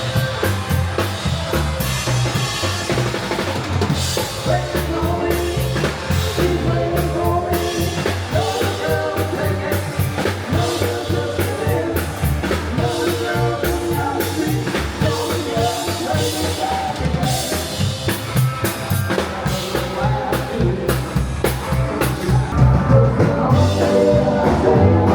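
Band music driven by a drum kit, with bass drum and snare keeping a steady beat under sustained instrument notes.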